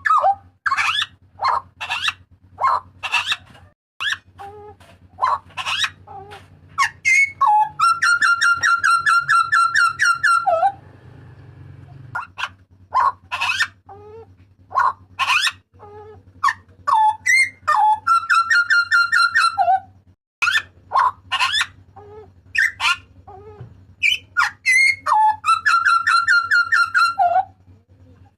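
Papuan butcherbird (jagal papua) calling loudly: quick runs of sharp whistled notes and falling sweeps, broken three times by a harsh, buzzy rattle held for two to three seconds.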